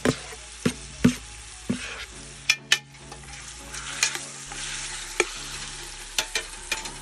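Seasoned curry chicken sizzling in a steel pot over a wood fire, with a metal spoon scraping and clinking irregularly against the bowl and pot as the chicken is scraped in and stirred.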